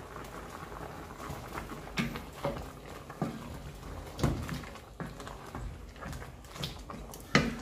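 Hands stripping fresh thyme into a simmering pot of curry chicken: scattered soft rustles and light clicks against the pot, with a sharper click near the end, over the low steady sound of the pot cooking.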